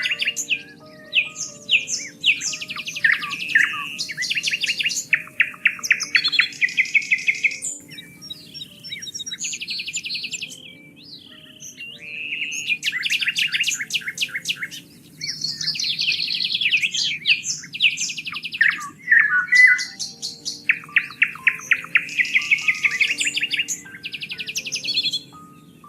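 Songbirds singing: varied, loud phrases of rapid trills and chirps that come in bursts a few seconds long with short pauses between them. Faint, steady low tones sit underneath.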